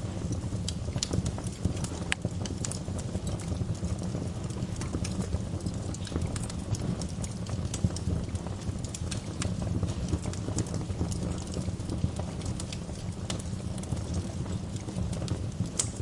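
Wood fire burning in a fireplace, with a steady low rumble of flames and frequent irregular sharp crackles and pops from the burning logs.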